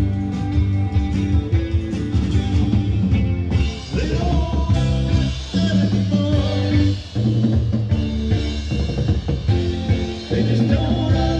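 Rock music from a band: drum kit, a thick bass line and singing.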